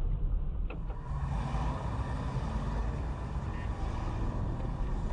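Steady road and engine rumble of a moving car as heard from inside it through a dashcam microphone. The sound changes abruptly about a second in, with a brief click, and then carries on steadily.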